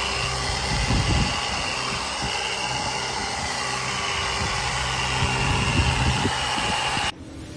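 Electric car polisher running steadily with a blue cutting pad on the paint, its motor giving a steady whine; it cuts off suddenly near the end.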